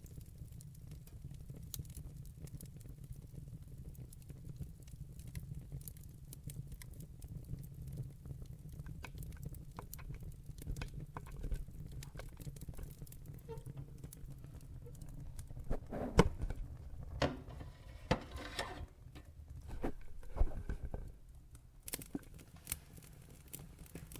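Wood fire in a fireplace crackling: scattered sharp pops and snaps over a steady low rumble, with a run of louder pops about two thirds of the way through.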